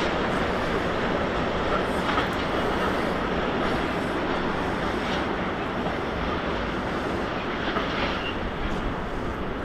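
Freight train of container wagons rolling away on the track: a steady rumble of wheels on rail that slowly fades.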